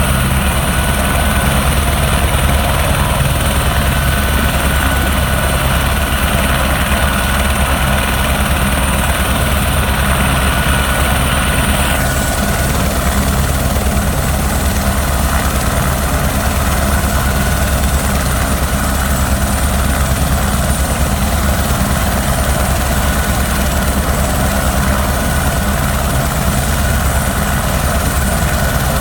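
Helicopter running steadily, its rotor and turbine noise constant with a fast low thrumming. About twelve seconds in, the high hiss grows fuller.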